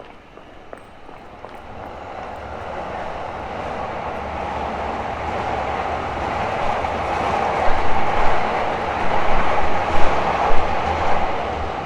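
Train passing on nearby tracks. Its rumble builds steadily over several seconds, and a few loud clacks of wheels on the rails come near the end.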